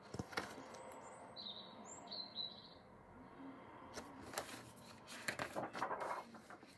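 Faint short bird chirps, several in a row between about one and three seconds in. From about four seconds on, soft rustles and light knocks as a picture book is held up and lowered.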